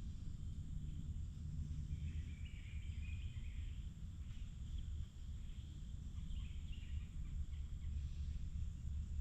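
Forest ambience: a steady low rumble with faint, scattered bird chirps, clearest about two seconds in and again around seven seconds.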